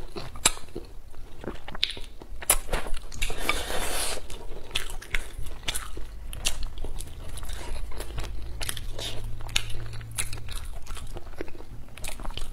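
A person chewing and crunching food close to the microphone: many short, sharp, wet clicks and crunches, with a longer hissing sound about three and a half seconds in.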